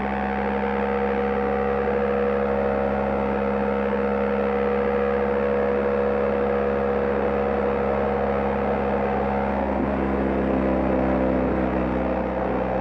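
BMW GS Adventure motorcycle engine running at a steady cruising speed, a constant drone under a steady hiss of wind and road noise, with a slight change in pitch near the end.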